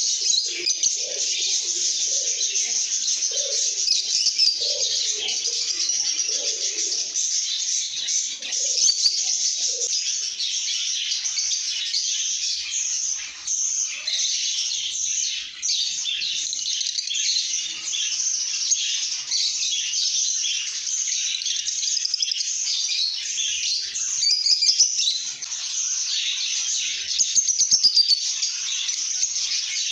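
A flock of lovebirds chattering and chirping without a break, many shrill overlapping calls at once, with some lower notes mixed in during the first ten seconds.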